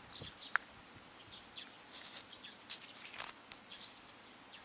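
Faint, scattered bird chirps, with one sharp click about half a second in and a few soft rustles.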